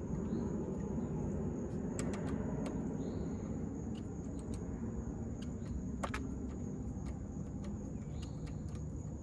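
A few sharp metallic clicks, about two seconds in, again shortly after and once near the middle, from a battery terminal clamp being worked onto its post. Under them runs a steady low outdoor rumble and a steady high insect drone.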